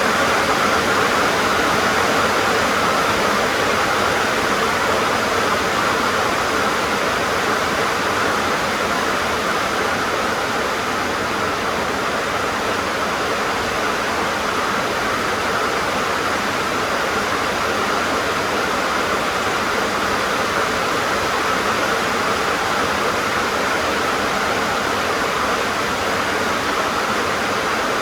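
Heavy rain drumming steadily on a tin (metal sheet) roof, a dense even hiss with no let-up.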